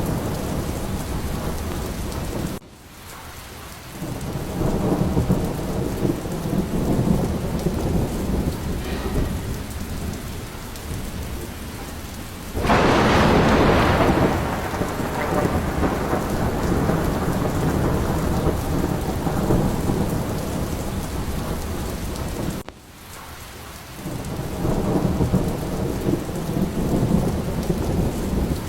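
Steady heavy rain with low rolling thunder, and one loud thunderclap about halfway through. The sound drops away briefly twice.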